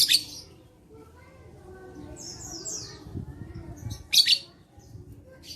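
Lovebird calling in short, shrill, harsh chirps: a loud burst at the start, a softer run of chirps around two seconds in, and another loud burst about four seconds in.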